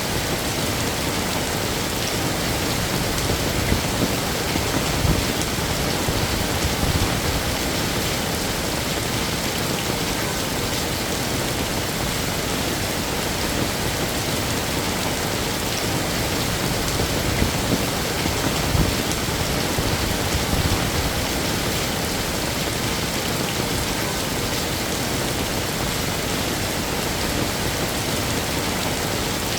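Heavy rain falling steadily, a dense even hiss of drops on hard surfaces with a few louder splashes here and there.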